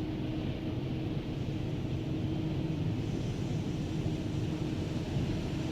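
Steady low rumble and hum inside a minivan's cabin as it sits on a car-wash conveyor, with the van idling and the wash machinery running. A faint hiss joins about halfway through, as the first wet-down spray starts.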